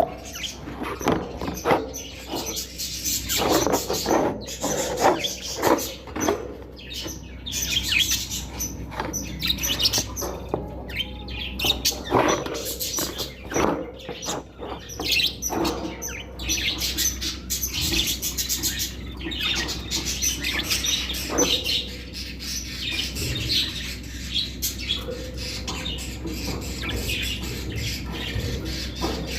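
Budgerigars chirping and chattering without pause, a dense run of many short, high chirps overlapping one another, with scattered clicks among them.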